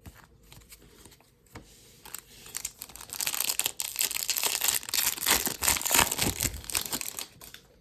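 Foil trading-card pack wrapper being torn open and crinkled, a dense crackle that starts about three seconds in after a few light rustles.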